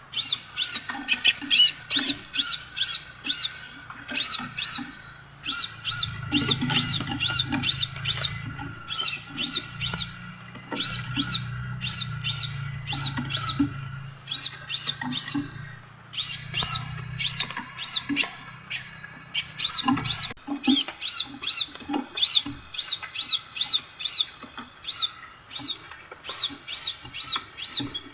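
Scarlet minivet (sepah raja) calling: a long series of sharp, high chirping notes, about three to four a second, in bouts broken by short pauses.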